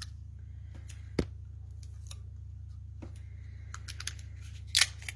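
Paper and craft tools being handled on a work table: a sharp click about a second in, a few faint ticks, and a short rustle of paper near the end, over a steady low hum.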